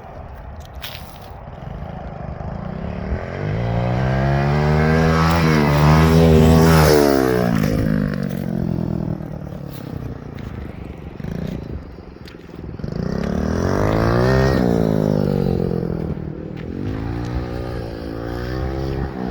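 X-Pro 110cc four-stroke dirt bike engine revving up and down as it is ridden, in three surges: loudest about a third of the way in, again about two-thirds through, and more briefly near the end.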